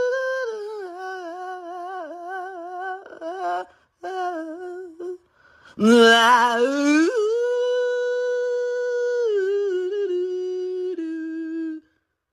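Arctic wolf howling in long, clear, wavering notes with short breaks, then a note that swoops up about six seconds in and is held steady for several seconds before stopping shortly before the end.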